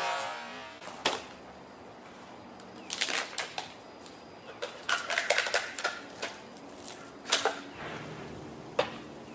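Irregular sharp clicks and taps: a single one about a second in, quick clusters around three and five seconds in, then a few single ones near the end.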